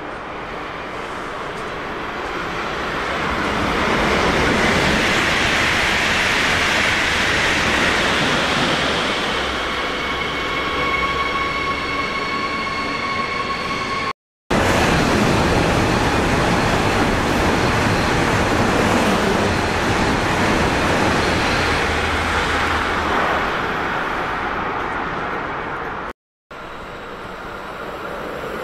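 Electric trains passing at close range, a loud rushing noise that swells and fades. A steady whine comes through partway along the first pass. The sound cuts out abruptly twice and starts again with the next train.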